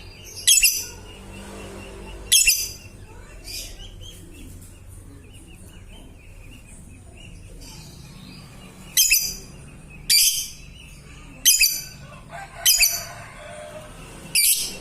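Lovebird calling: seven short, loud, high-pitched calls spaced irregularly, over a faint continuous twittering.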